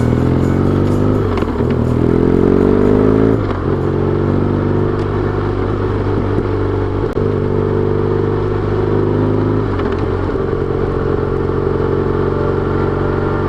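BMW R1200GS boxer-twin engine accelerating on the road: rising in pitch for about three seconds, then shifting up and running at a steadier pitch, with brief dips at further gear changes about seven and ten seconds in.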